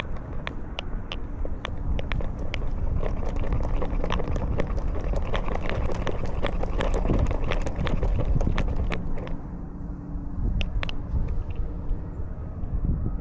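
Collar-mounted camera jostled as a cat walks: a steady low rumble of rubbing and movement noise with many sharp, irregular clicks, busiest through the middle and thinning out near the end.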